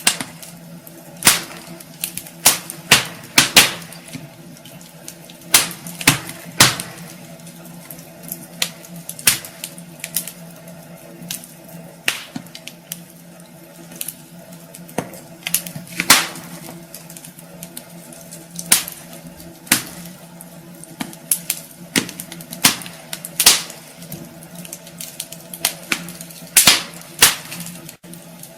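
Wood fire burning in a fireplace, crackling with irregular sharp pops, some bunched close together, over a steady low hum.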